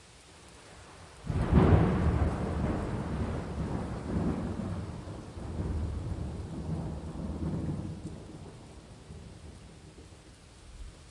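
Thunder cracks suddenly about a second in and rolls on, rumbling with a couple of further surges before fading away, over steady falling rain.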